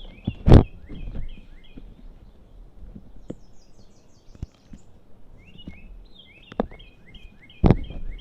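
Blocks of reformed gym chalk being crushed: a loud sharp crunch about half a second in and two more near the end. A bird sings repeated short chirping phrases throughout.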